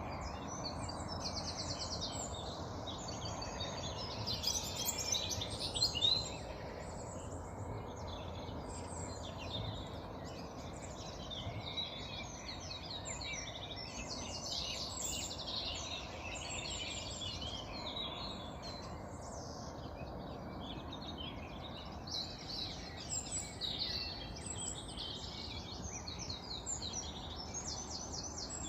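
Many birds singing together in an early-morning dawn chorus, a dense mix of overlapping chirps, trills and calls, over a steady low background hum.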